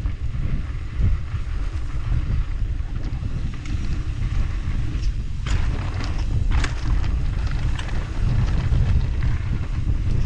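Wind buffeting the microphone of a chest-mounted action camera during a fast mountain-bike descent, with the tyres rolling over the dirt trail. A few sharp clicks and rattles come about five to eight seconds in.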